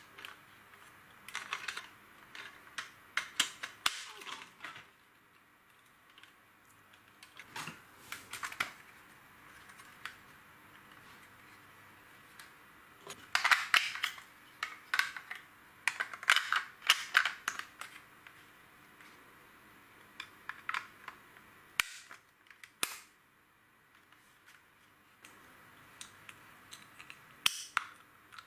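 Hard plastic LEGO pieces clicking and clattering as they are handled and snapped together, in irregular clusters of sharp clicks with short quiet gaps between.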